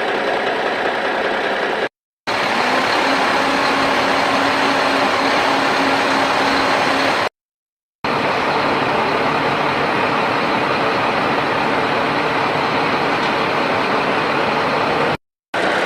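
Steady whirring of a toy JCB's small electric motor and gears as it works. It cuts to dead silence three times: briefly about 2 seconds in, for most of a second around the middle, and briefly near the end.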